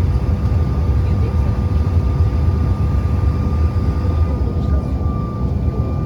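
Jet airliner engines heard from inside the cabin: a steady low rumble with a thin, steady whine above it, unchanging in level.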